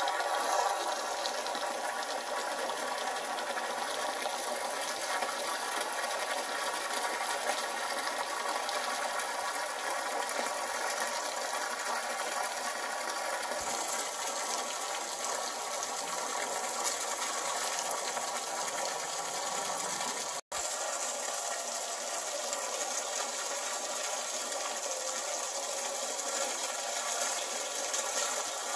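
Water running steadily from a hose, with a momentary break about 20 seconds in.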